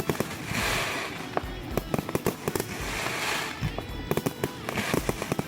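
Aerial fireworks going off in rapid volleys: many sharp bangs in quick, irregular succession, with waves of crackling, over background music.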